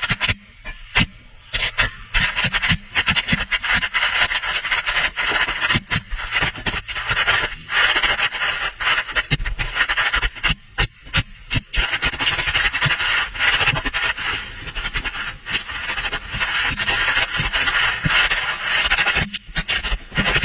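Irregular scraping and rubbing with many sharp knocks, from a camera on a line being lowered down a narrow shaft and brushing against its walls.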